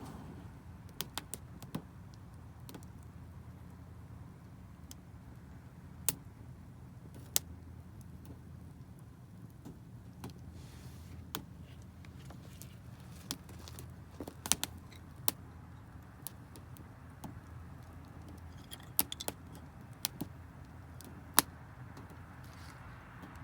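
Campfire of damp firewood crackling, with sharp irregular pops every second or so over a low steady rumble.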